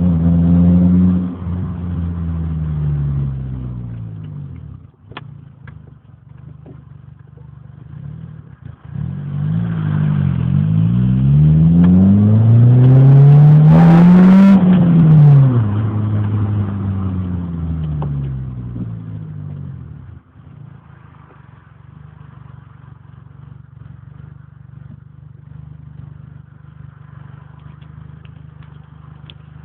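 Renault Clio with a modified exhaust driving by: a loud engine note falls away in the first few seconds, then builds again from about ten seconds in, rising in pitch to its loudest around the middle before falling away. After that only a faint steady rumble is left.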